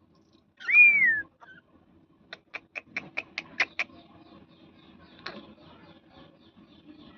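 A pet parrot gives one loud whistle that rises and then falls in pitch, followed a second later by a quick run of about eight sharp clicks.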